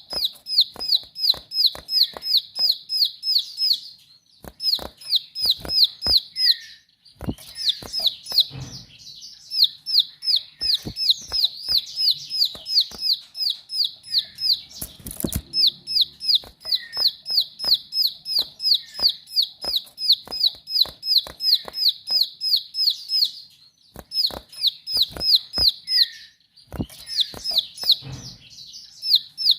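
Ciblek sawah, a small prinia, calling in long runs of sharp, high, rapidly repeated chirps, about five a second, with a few short pauses. Scattered sharp clicks and one louder knock about halfway through are heard alongside.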